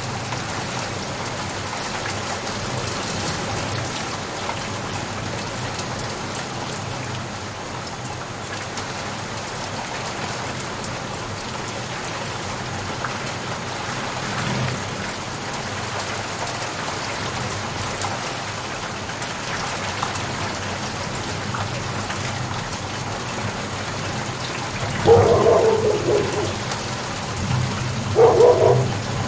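Steady rain falling on a surface, an even hiss of drops. About 25 seconds in and again near the end, a few short, louder bursts rise over it.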